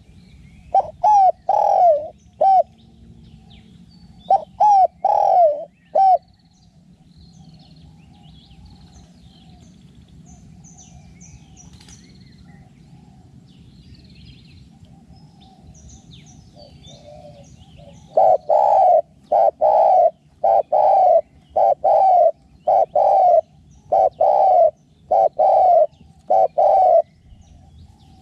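Spotted dove cooing loudly in repeated phrases: two short runs at the start, then after a long pause a long string of coos. Small birds chirp faintly in between.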